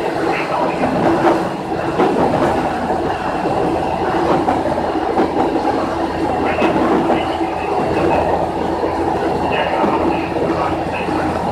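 Diesel railcar running at speed, heard from inside the driver's cab: a steady engine hum under rolling noise, with wheels clacking now and then over rail joints and points.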